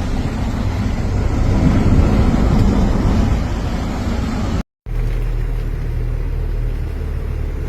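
Car on a flooded street: a loud wash of water and tyre noise over the engine for about four and a half seconds, then, after a sudden break, a steady low engine hum.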